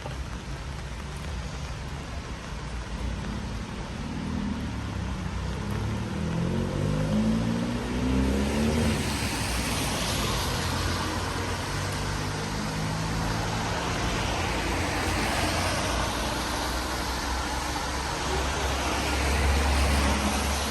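Cars driving past on a wet street: an engine rises in pitch as a car pulls away a few seconds in, then tyre hiss on wet tarmac swells and fades as several vehicles pass, with a low engine rumble near the end.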